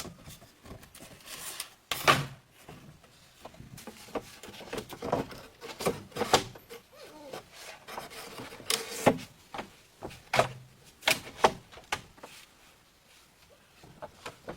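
Irregular knocks and scraping, as of hard objects being handled and set down, with a few louder sharp knocks spread through.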